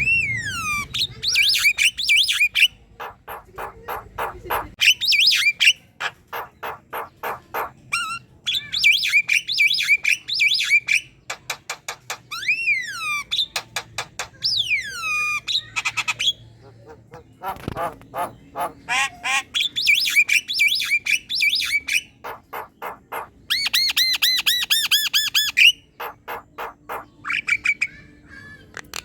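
Javan myna singing energetically: a varied chatter of rapid clicking runs, harsh squawks and rattles, broken by loud whistles that fall in pitch.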